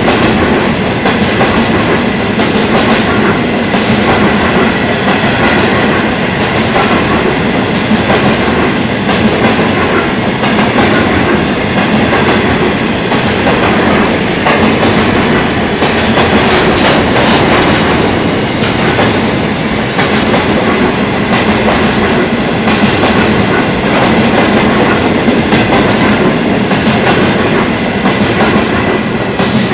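Coal hopper wagons of a freight train rolling past at speed, with a loud, steady rumble and the repeated clack of wheels over rail joints, and a faint steady high ringing from the wheels and rails.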